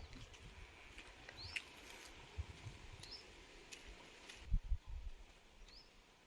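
Faint, short rising chirps, as from a small bird, repeating every second or two over a soft hiss, with a few low thumps about four and a half seconds in.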